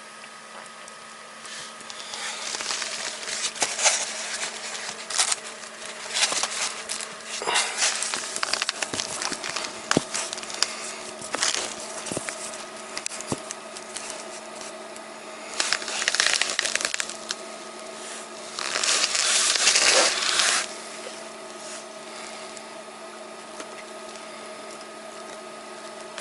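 Irregular crunching and rustling of a person moving about, with two longer scraping rustles about halfway through, over a steady faint hum.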